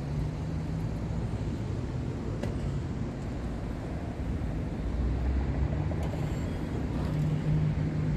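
Motor vehicle engine running, a low steady hum and rumble that grows louder about five seconds in.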